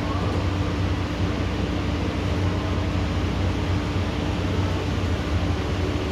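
Heavy rain rushing steadily, with a constant low hum underneath.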